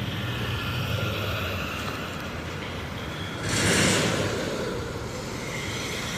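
Diesel freight train switching tracks at low speed, a steady low hum and rumble. A brief loud rushing noise comes about three and a half seconds in.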